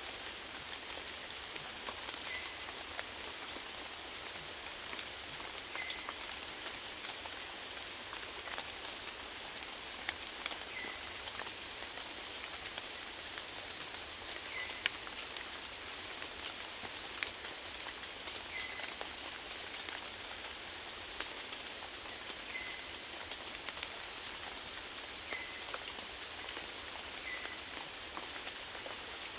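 Steady rainfall: an even hiss with individual drops ticking sharply, here and there a louder one.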